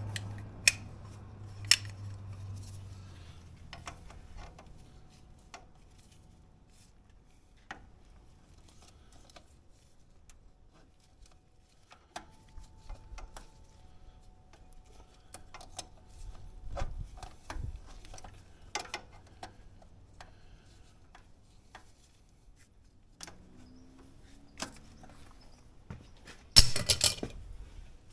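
Scattered metallic clinks and knocks of hand tools and parts being handled during an oil change, with a brief, louder clatter near the end. A low hum fades out over the first few seconds.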